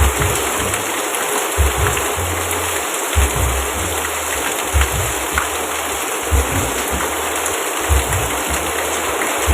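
Steady rain hissing, over a soft, deep low pulse that repeats about every second and a half.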